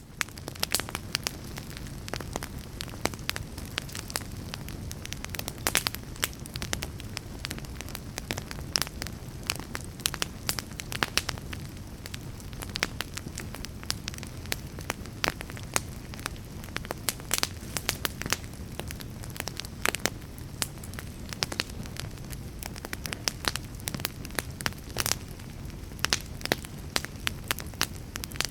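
Fire crackling: a steady low rumble of burning with frequent irregular sharp pops and snaps.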